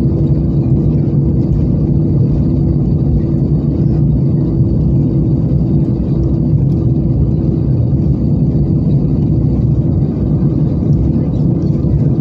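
Steady cabin noise inside an Airbus A320-214 on the ground just after landing: the CFM56-5B engines and the airframe give an even rumble with a constant low hum.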